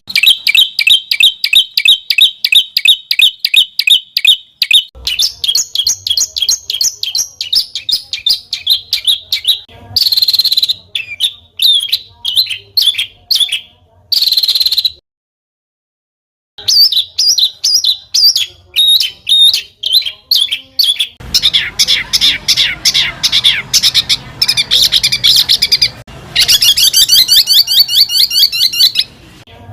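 Recorded songbird song played as tutoring material: fast rapid-fire runs of sharp chirps and trills, in several segments that start and stop abruptly. There is a short gap of total silence a little after halfway, and a dense, very high rapid trill near the end.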